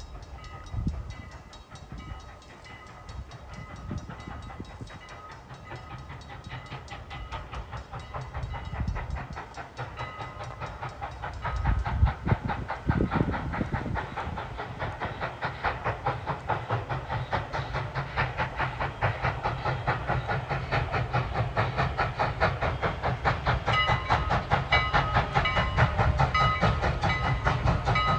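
Strasburg Rail Road steam locomotive No. 89, a 2-6-0, approaching with its exhaust chuffing in an even rhythm and steam hissing, growing steadily louder as it nears.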